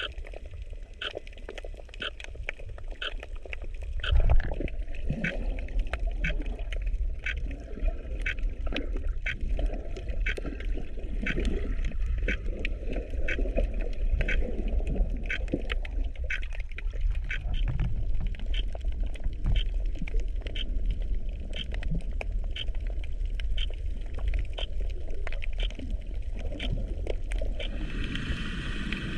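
Underwater sound picked up by a camera in a waterproof housing: water sloshing and rushing, with a surge about four seconds in, under a steady run of short sharp clicks, two or three a second.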